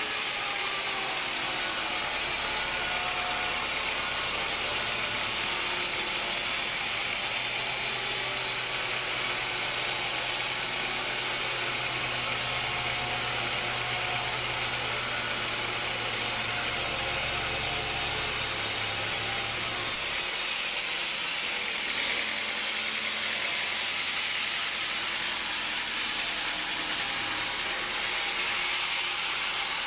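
Sawmill machinery running: a steady hiss over a low hum, the hum dropping away about two-thirds of the way through.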